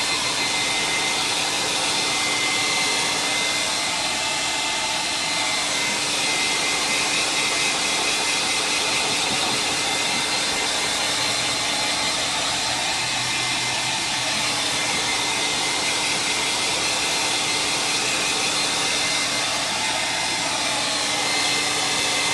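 Handheld hot-air dryer running steadily to dry paint on an art journal page: a rush of air with a steady whine over it. It cuts off abruptly at the end.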